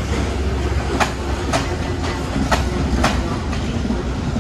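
Passenger coaches rolling past on a station track, their wheels clacking over a rail joint in two double clacks about a second and a half apart, over a steady low rumble.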